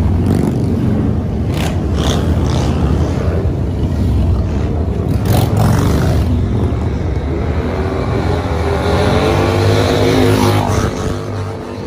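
Motorcycle engine running loud, revving up with rising pitch over several seconds and then dropping off near the end.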